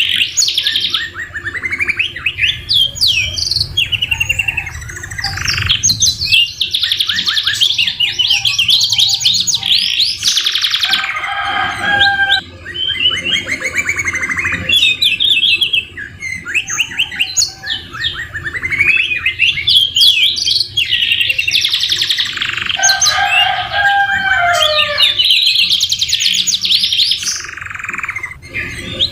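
Domestic canary singing a long, continuous song of fast rolls and trills mixed with rising and falling whistled sweeps, its phrases filled with notes copied from the white-rumped shama (murai batu).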